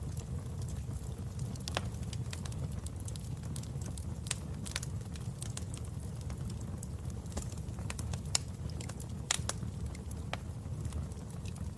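Wood fire in a fireplace crackling: irregular sharp pops and snaps over a steady low rumble of the burning logs.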